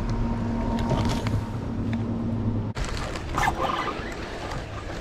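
A small motor's steady low hum that cuts off abruptly a little under three seconds in, followed by wind noise with a brief higher squeak.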